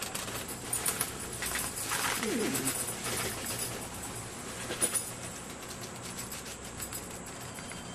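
A bird's low cooing call about two seconds in, among scattered clicks and rustling.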